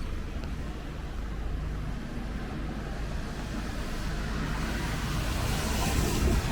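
Road traffic on a wet street: a vehicle engine running with a steady low rumble, and tyre hiss on the wet road swelling near the end as a vehicle passes close by.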